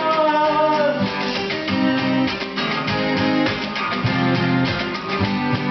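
Acoustic guitar strumming chords in a steady rhythm between sung lines of a song.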